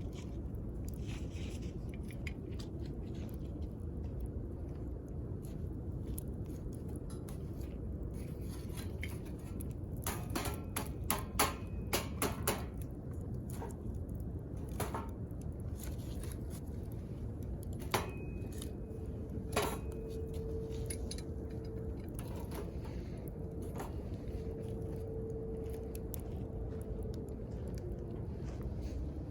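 Wood campfire burning with a steady low rush, crackling and popping in sharp snaps that bunch together in a quick run near the middle. A thin whistling tone holds for several seconds in the second half and sinks away near the end.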